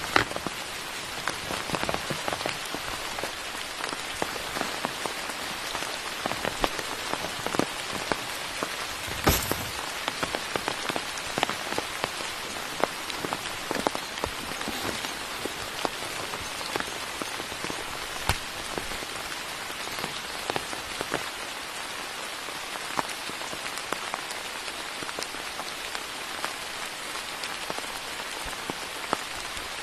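Steady rain falling in a forest, with many close drops landing as sharp ticks, and one louder knock about nine seconds in.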